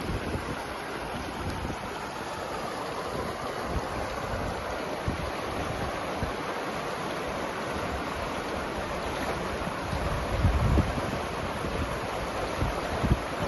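River water rushing steadily, with wind buffeting the microphone in low gusts about ten seconds in and again near the end.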